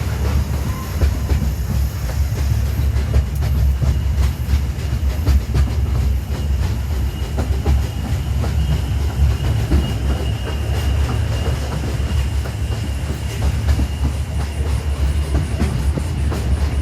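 Small narrow-gauge tourist train running along its track: a steady low rumble with the clickety-clack of the wheels over the rails. A faint, high, steady whine joins about halfway through.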